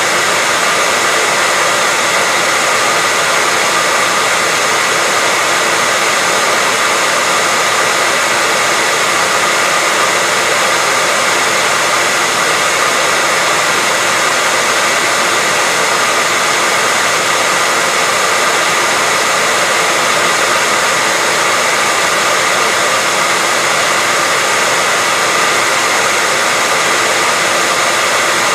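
Hair dryer running steadily: an even, loud rush of blown air with a faint high whine from its motor.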